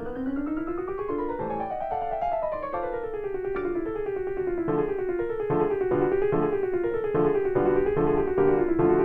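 Background piano music: quick rising and falling runs of notes that cross each other, settling after a few seconds into repeated rippling chords.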